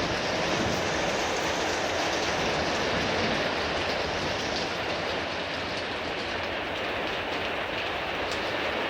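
Heavy rain pouring down steadily in a thunderstorm downpour.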